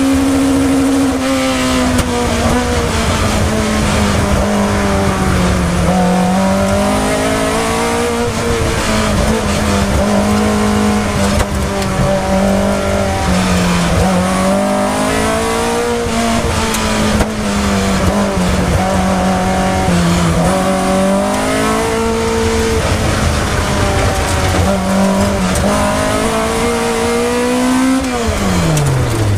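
Race car engine heard from the open cockpit during an autocross run, revving up and down again and again as the driver accelerates and brakes through the cone course. About 28 seconds in the revs drop steeply as the car lifts off at the end of the run.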